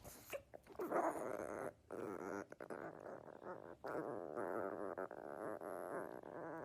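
A dog growling and grumbling in long, drawn-out stretches with a wavering pitch, broken by short pauses.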